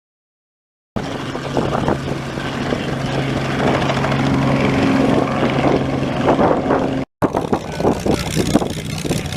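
Propeller aircraft's piston engine running with a steady low hum and crackle, starting suddenly about a second in; the sound drops out briefly near seven seconds and picks up again.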